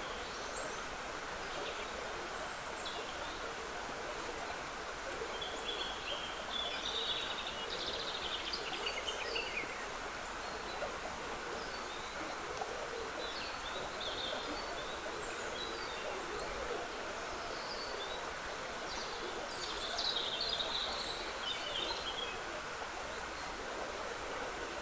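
A woodland stream trickling steadily, with songbirds singing over it: two longer warbling song phrases, one about a quarter of the way in and one near the end, and scattered short chirps between.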